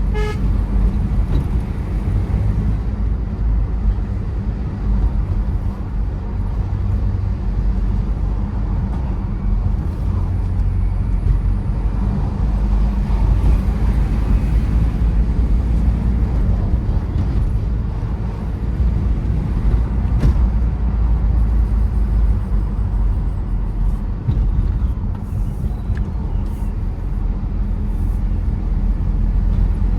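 Tata Safari Storme's diesel engine and tyre noise on the move, a steady low rumble that swells and eases slightly with the road. A short pitched beep sounds right at the start.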